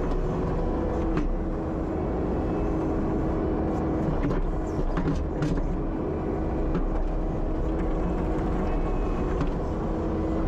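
Kubota SVL75-2 compact track loader's diesel engine running steadily under working load, with a constant whine. A few short knocks come through as the machine works the frozen ground.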